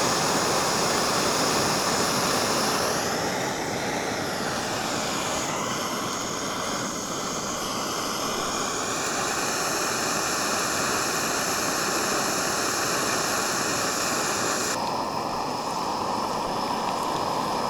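A motorboat engine running steadily, a loud even drone with a whining tone that bends down and up in pitch a few seconds in; the high end of the sound drops away suddenly near the end.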